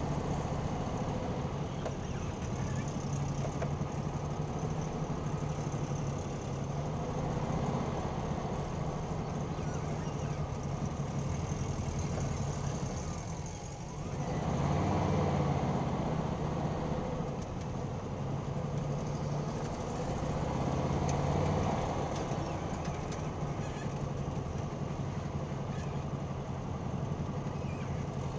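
Air-cooled Volkswagen flat-four engines idling with a steady low hum, heard from inside the car. The engine sound swells louder twice, about halfway through and again some seconds later.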